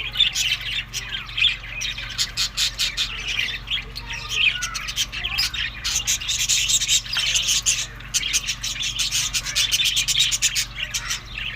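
Budgerigars chattering, chirping and squawking, with many short sharp clicks mixed in.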